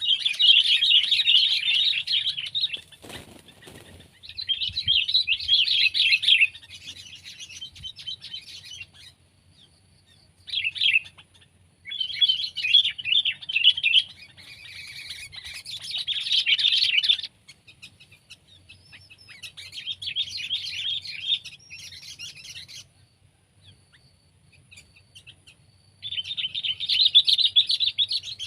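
Sooty-headed bulbul (kutilang) chirping in rapid chattering bouts of one to three seconds, repeated several times with short pauses between. A single brief thump about three seconds in.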